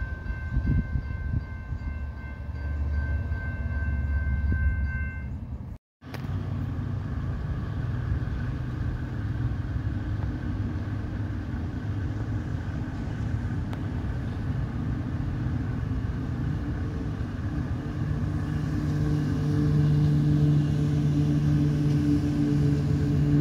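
Rumble of diesel trains, with a few steady high tones in the first seconds. After a brief gap of silence about six seconds in, a low droning rumble grows louder in the last few seconds as an Amtrak train led by GE P42DC locomotives approaches.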